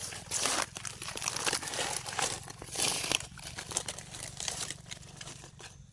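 Dry leaf litter and forest-floor debris rustling and crunching in irregular bursts as it is handled, easing off near the end.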